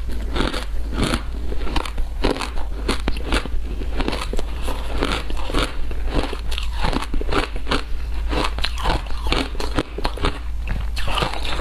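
Frozen matcha ice being bitten and chewed, with rapid, irregular crunches several times a second.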